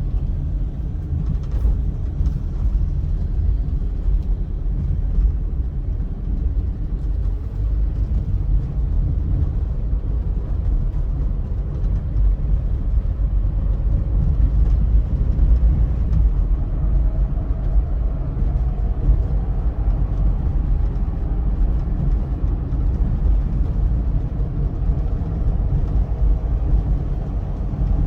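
Car driving along a highway: a steady low rumble of engine and tyre noise.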